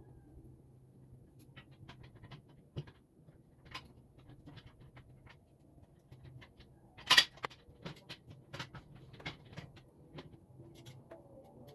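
Scattered light clicks and taps of table parts and hardware being handled during assembly, with one louder knock about seven seconds in, over a faint low hum.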